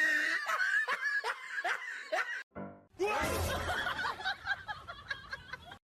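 Rapid ha-ha-ha laughter over background music, cut off briefly about two and a half seconds in and then resuming.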